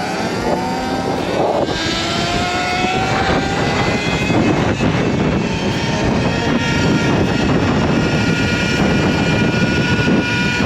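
Sur-Ron electric dirt bike's motor whining under acceleration, the whine rising in pitch over the first few seconds and then holding steady, under heavy wind noise.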